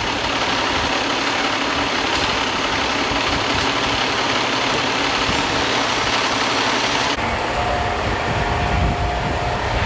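Steady, loud running of heavy vehicle engines, with an abrupt change in the noise about seven seconds in.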